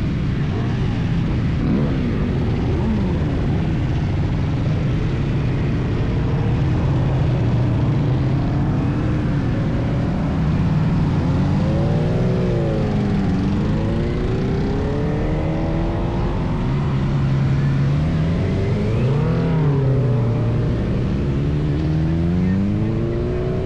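Motorcycle engine running while ridden, its pitch rising and falling several times as it revs up and eases off, over a steady low rumble of wind and road noise.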